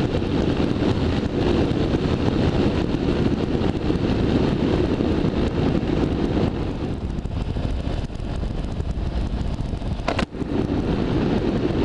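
BMW F650ST single-cylinder motorcycle engine running steadily at road speed, mixed with wind and road noise. A sharp click with a brief drop in level comes about ten seconds in.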